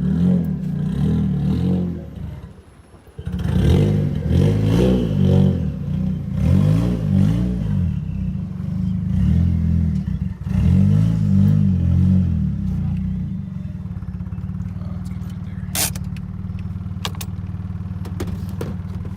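Nissan 240SX engine running under a feathered throttle, the revs surging up and down, as it doesn't want to idle on its own. It nearly dies a few seconds in. Later it settles to a steady idle, with a few sharp clicks near the end.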